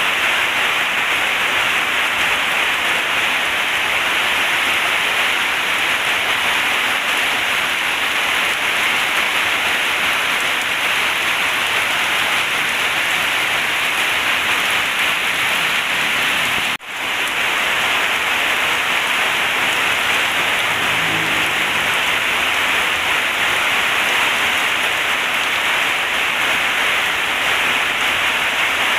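Heavy rain falling steadily in a dense, even hiss. About two-thirds of the way through, the sound cuts out for an instant and comes straight back, like an edit splice.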